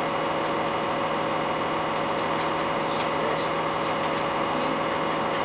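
Cummins ISL diesel engine of a Blue Bird CS transit bus running at a steady pitch, heard from inside the bus, with a faint click about three seconds in.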